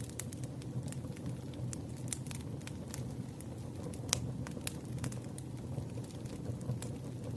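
Campfire crackling: scattered sharp pops and snaps over a steady low rumble of burning wood, with one louder pop about four seconds in.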